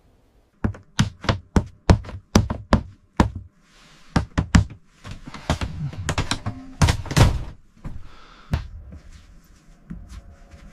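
A quick series of sharp knocks, about three a second for a few seconds. Then come more irregular knocks and thuds, thinning out near the end.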